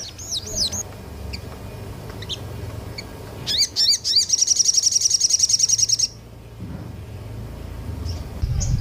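Small songbird singing: a few sharp high chirps, then rising whistled sweeps and a loud, fast trill of about ten notes a second lasting about two seconds, over a faint low hum.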